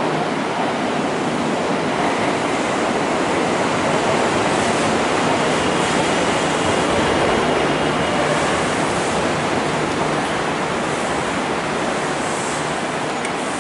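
Kintetsu electric commuter train moving slowly along the station platform: a steady rumble of wheels and running gear, swelling a little in the middle, with a faint thin motor whine partway through.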